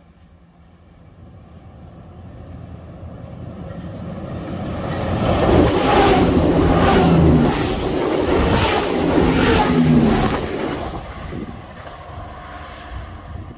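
Multiple-unit passenger train approaching and passing close by. It builds to a loud rush of wheels on rails, with a series of regular thumps as the bogies go by, then fades.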